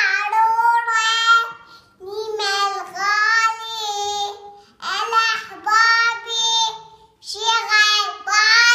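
A young girl singing unaccompanied in a high voice, four melodic phrases with short breaks for breath between them.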